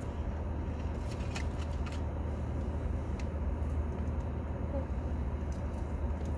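Car idling at a standstill, heard from inside the cabin: a steady low hum with a few faint ticks.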